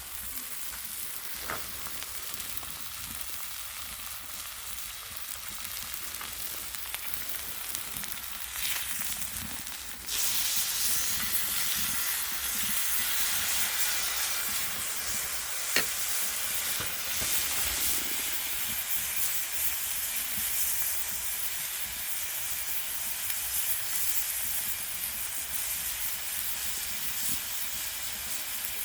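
Pork belly sizzling in its fat on a cauldron-lid griddle over a wood fire, a steady frying hiss that suddenly gets louder about a third of the way in. One sharp pop about halfway through.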